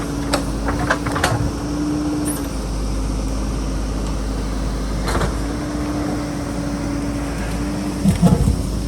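JCB backhoe loader's diesel engine running steadily at work, with a steady whine that drops out for a few seconds in the middle. A few short knocks, the loudest group shortly before the end.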